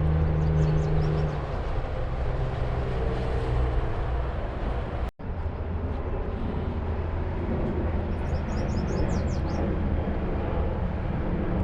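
Highway traffic noise: steady tyre and road noise with a heavy engine drone that eases after about a second. The sound drops out briefly about five seconds in.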